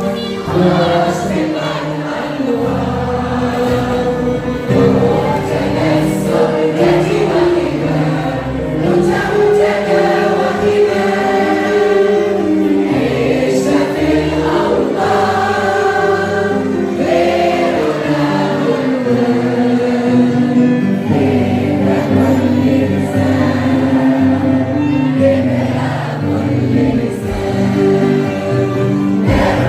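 Choir of children and young people singing a song, with instrumental backing holding steady low notes beneath the voices.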